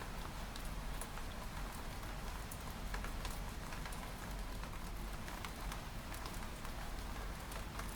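Steady rain falling on a window pane: a continuous hiss with many sharp, scattered drop ticks on the glass and a low steady rumble underneath.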